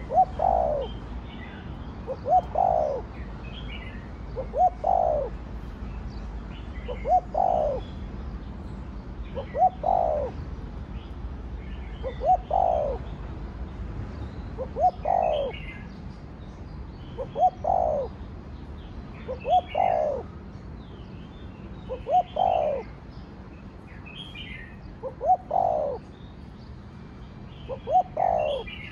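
Spotted dove cooing its song over and over, a phrase about every two and a half seconds: two short notes and then a longer falling note. Smaller birds chirp faintly at a higher pitch between the phrases.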